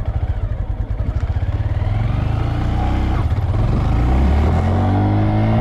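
Motorcycle engine pulling away. Its low, even putting gives way about two seconds in to a pitch that climbs and grows louder as the bike accelerates.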